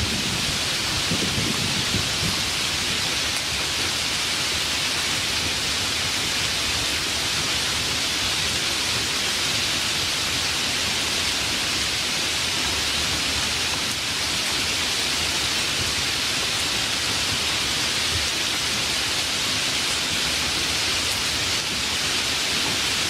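Steady, even rain, with the tail of a thunder rumble dying away in the first second or two.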